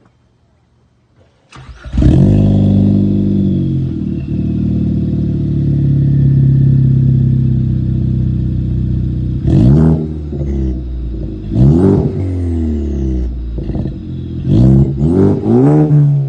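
Ford Focus ST's turbocharged 2.0-litre EcoBoost four-cylinder with a Steeda aftermarket exhaust, starting about a second and a half in with a brief flare, then settling to a steady idle. In the second half it is revved in short throttle blips, the last few close together.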